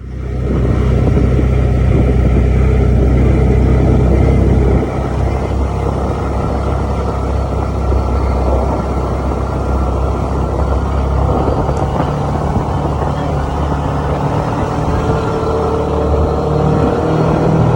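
A car engine running close by with a deep, steady rumble. It eases off about five seconds in and keeps running.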